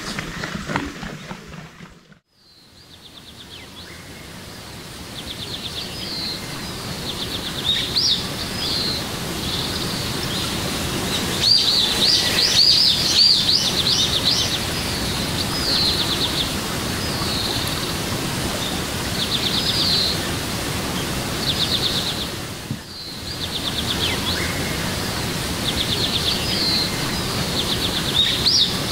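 Outdoor ambience of small birds chirping and trilling in short repeated phrases over a steady background hiss. The sound drops out about two seconds in and fades back up over the next few seconds.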